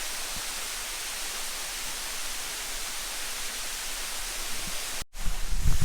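Waterfall's steady rushing water, an even hiss. About five seconds in it cuts off abruptly and gives way to louder low rumbling.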